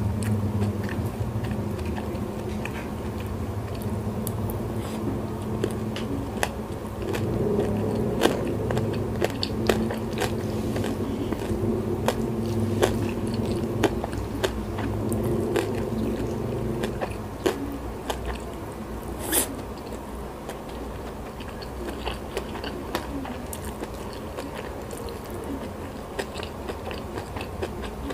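Close-miked chewing of a mouthful of rice with salted fish and sambal, with many small crunches and wet mouth clicks. The chewing is heavier for the first two-thirds and softer after that, with one sharper click about two-thirds of the way through.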